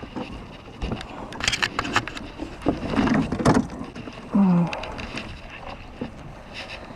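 Irregular scrapes, clicks and knocks, with a short low tone that drops in pitch about four and a half seconds in.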